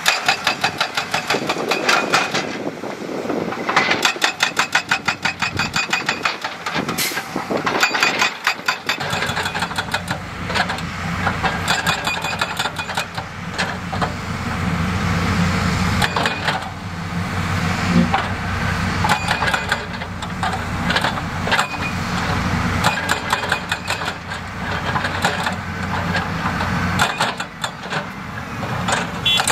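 Heavy construction machinery at work on rock: a rapid run of clattering knocks of rock and metal, then, from about nine seconds in, a diesel engine drones steadily under load while the knocking and scraping carry on over it.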